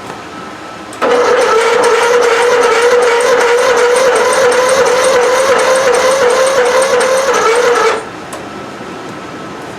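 Electric starter cranking an old Lawn-Boy zero-turn mower's engine for about seven seconds: a steady whine with a quick, regular beat. It starts suddenly about a second in and cuts off suddenly without the engine catching.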